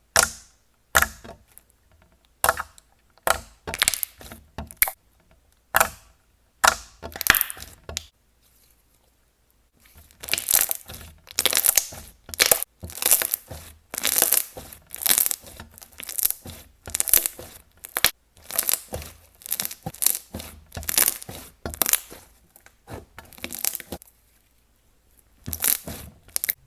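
Thick, non-tacky jelly slime being squished and pulled by hand, giving a run of short wet crackles and pops. The crackles pause for a couple of seconds, then come thicker and faster.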